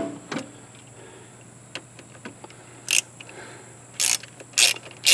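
A knock at the start, then a socket ratchet clicking in short strokes about two a second from about three seconds in, as a nut is undone to disconnect the power cables.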